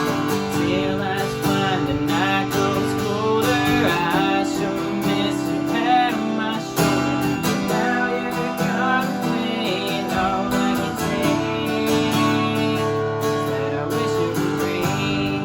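Acoustic guitar strummed in a steady rhythm with a voice singing a country song over it.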